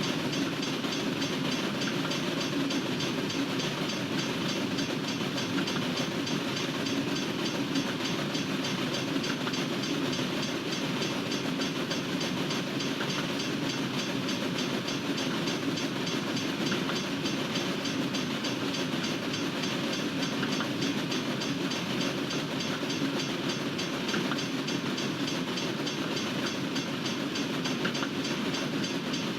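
Freight train cars rolling past steadily, steel wheels on the rails giving an even, unbroken rumble and clatter.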